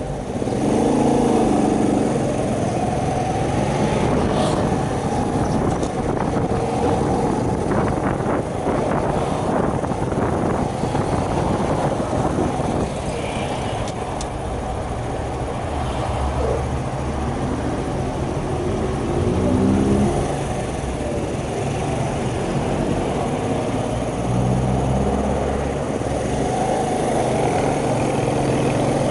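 Shineray 50cc motorcycle engine running while riding, heavily covered by wind buffeting on the microphone. The engine pitch rises as it revs up about a second in and again about two-thirds of the way through.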